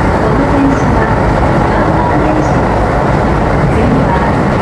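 Keisei 3500-series electric train running along the line, heard from inside the front car: a steady, loud rumble of wheels on rails and running gear.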